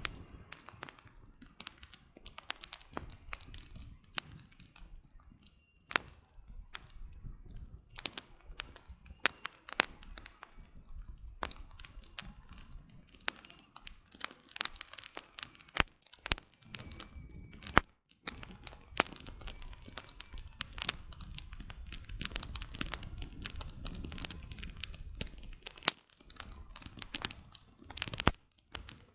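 Wood campfire burning, the firewood crackling with dense, irregular sharp pops and snaps over a soft low rumble of flame.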